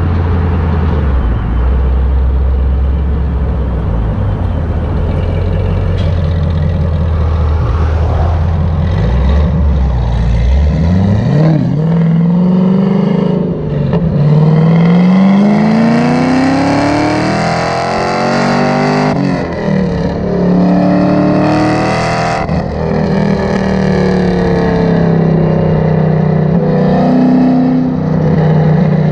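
Supercharged 6.2 L V8 of a 2013 Camaro ZL1 running through long-tube headers, high-flow cats, an X-pipe and the stock valved mufflers. It holds a steady low rumble for about the first ten seconds. The engine then accelerates with the pitch climbing, drops back at two gear changes, and settles to a steady drone near the end.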